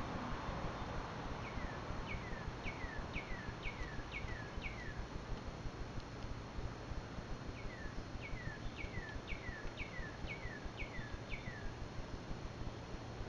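A songbird singing two runs of clear, downward-slurred whistled notes, about two a second, with a pause of a couple of seconds between the runs. A steady low rumble of outdoor background noise lies beneath.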